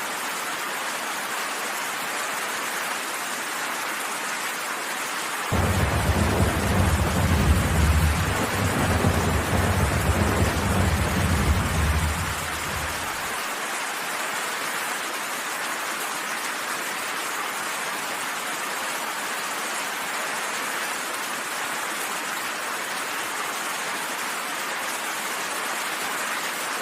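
Steady rain falling, with a roll of thunder that starts suddenly about five seconds in, rumbles low and loud for about eight seconds, then ends abruptly.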